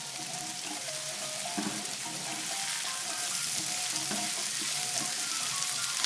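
Chopped tomato, green pepper and carrot sizzling and frying in a large skillet pan on a barbecue: a steady sizzle with small crackles.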